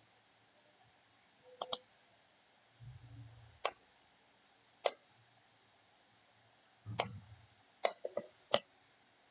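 Computer mouse clicking, a scattered run of about seven or eight sharp clicks with irregular gaps, including a quick pair near the start and a cluster near the end. Two brief low dull thumps come in between.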